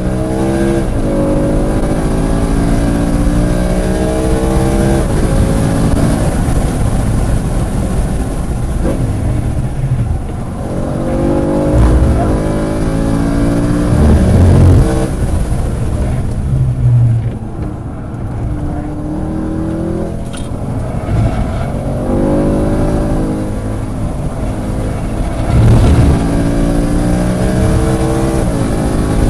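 Race-prepared car's engine at full throttle on track, heard from inside the car: the revs climb through the gears and break at each upshift, then fall away as the driver lifts and brakes. There is steady wind hiss, and a few heavy low thumps come near the middle.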